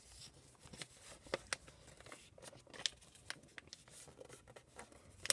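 A sheet of paper being folded and creased by hand: faint, scattered rustles and short crisp clicks.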